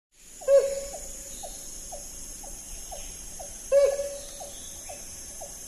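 Helmeted hornbill calling: two loud hoots about three seconds apart, with a steady run of short quieter notes about two a second between them, over a steady high hiss.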